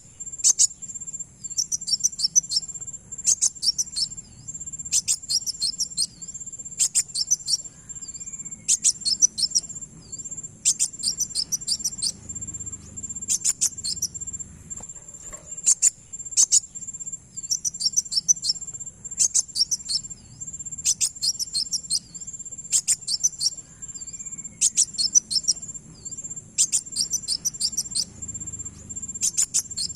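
Kolibri wulung (a sunbird) song played as a bird-keeper's lure: short bursts of rapid, very high chirps, repeating evenly about every two seconds. A steady high-pitched drone runs beneath them.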